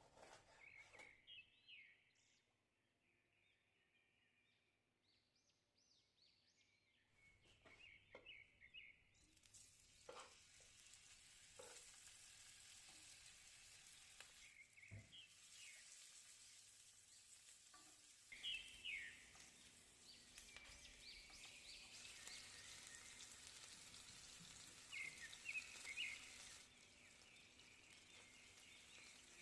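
Birds chirping, with a faint steady sizzle of food frying joining in about a third of the way through, along with a few light knocks.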